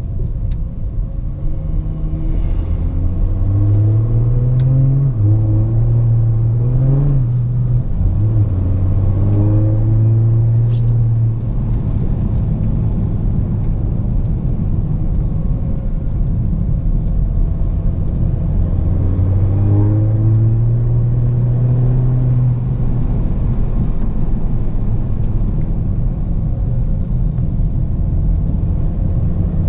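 Audi A7 3.0 TDI V6 diesel with a straight-pipe exhaust and no muffler, running with a loud low rumble. It revs up and down in a series of blips from about two seconds in to about eleven, settles, then revs again about twenty seconds in.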